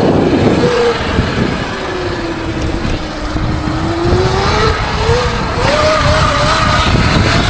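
Motorcycle engine running at speed, its pitch sagging and then climbing steadily as it pulls, under a constant rush of wind noise.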